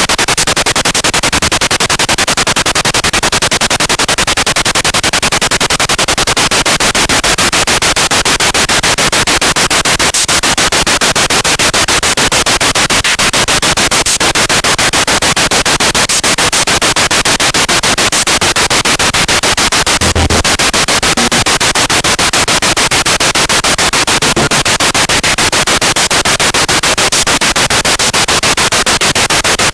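Spirit box radio sweeping through stations: a loud, steady hiss of radio static chopped into rapid, even pulses as the tuner steps from channel to channel.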